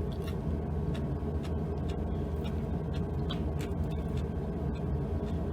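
Eating sounds: scattered small clicks of chewing and utensils against food and bowl, over a steady low hum.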